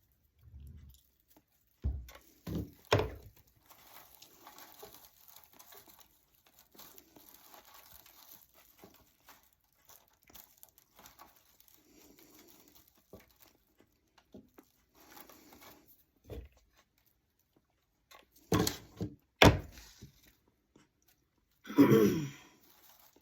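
Dry craft hay being handled and pressed into a toy truck bed: faint rustling and crinkling, with a few sharp knocks on the work surface, two about 2–3 seconds in and two near the end. A short vocal exclamation comes just before the end.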